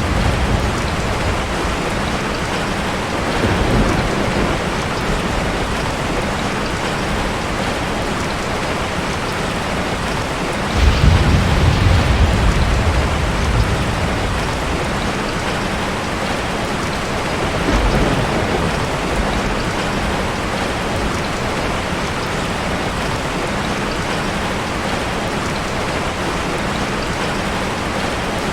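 Steady, heavy rain falling on a forest, with low rumbles of distant thunder: a weak one about 4 seconds in, the loudest from about 11 to 13 seconds, and another near 18 seconds.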